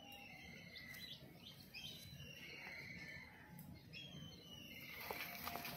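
Small birds chirping: short high calls and trills, repeated every second or so, over a low steady background rumble. A few light clicks come near the end.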